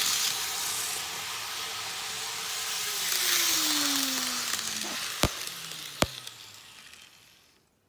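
Train cars passing close by: a steady hiss of running noise that fades away near the end, with a tone gliding down in pitch in the middle and two sharp clicks shortly after.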